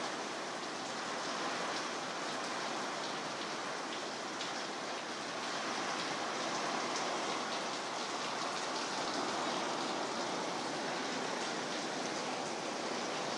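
Very heavy rain falling, a steady dense hiss with scattered drop ticks.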